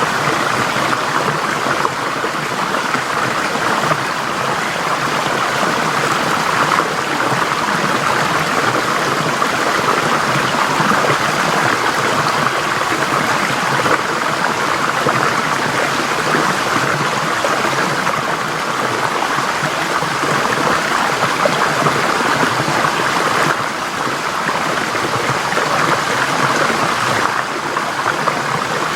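Forest stream flowing steadily, a constant rush and babble of water over rocks.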